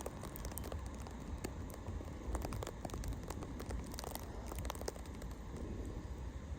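Storm wind rumbling on the microphone, with scattered, irregular ticks of wet precipitation hitting nearby.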